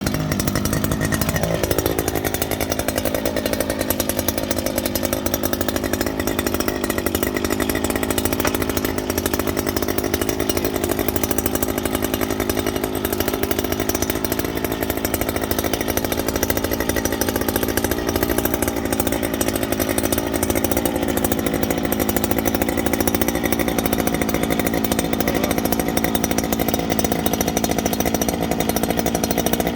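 Petrol-engine earth auger running hard, its small engine's pitch dropping sharply in the first two seconds, then holding steady and sagging a little about two-thirds of the way through.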